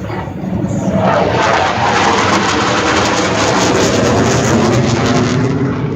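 Jet aircraft passing overhead: loud jet noise that builds over the first second, holds steady, then falls away sharply near the end.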